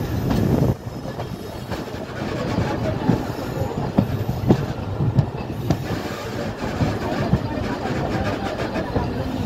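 Bangladesh Railway passenger coach running along the track, heard from an open window: a steady rumble of wheels on rails with scattered sharp clacks at the rail joints.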